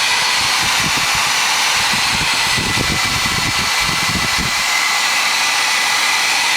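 Hair dryer running steadily: a loud, even rush of air with a thin whine in it, and some low rumbling near the middle.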